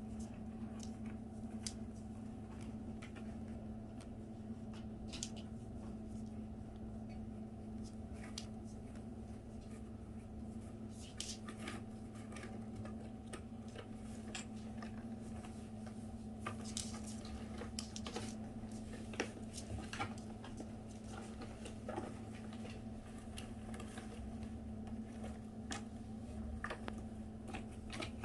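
Scattered soft clicks and rustles, irregular and brief, over a steady low electrical hum.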